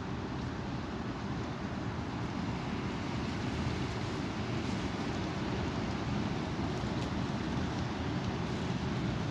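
Strong wind blowing: a steady rushing noise, heaviest in the low rumble, with no breaks.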